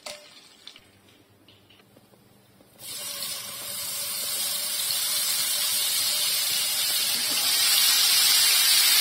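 Ginger-garlic paste spooned into hot oil in a frying pan: a loud sizzle starts suddenly about three seconds in and grows steadily stronger. Before that, only a few faint clicks.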